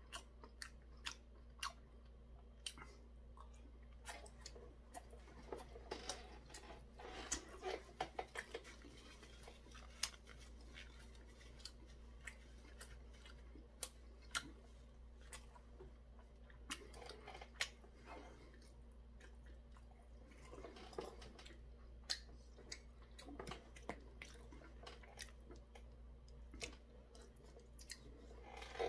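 A person chewing crispy deep-fried Korean snacks (twigim) with the mouth close to the microphone. Scattered sharp crunches run throughout, with a denser run about six to nine seconds in.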